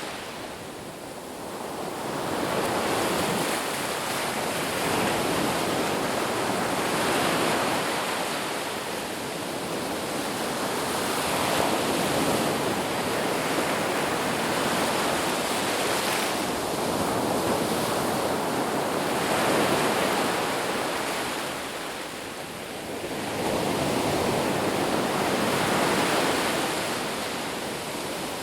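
Sea waves breaking and washing ashore, a steady rush of surf that swells and ebbs every few seconds, with a quieter lull about a second in and another near 23 seconds.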